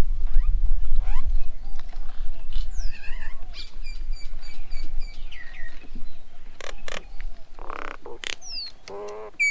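Several birds at a feeding table calling and chirping: short whistles, down-slurred notes, a quick run of repeated chirps and a harsh rasping call. A low rumble sits under the first few seconds.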